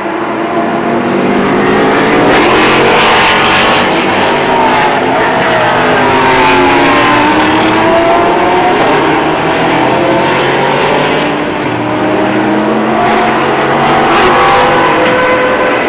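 Several sports-prototype and GT race cars going past at racing speed, their engines overlapping, each engine note rising and falling in pitch as the cars come and go.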